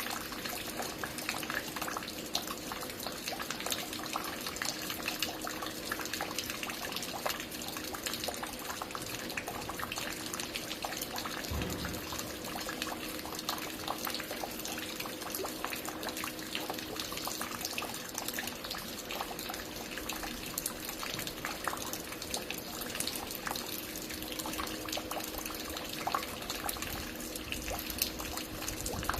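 Water falling and dripping at a construction site in many drops: a dense, irregular patter of splashes, with a faint steady hum beneath and a brief low rumble about twelve seconds in.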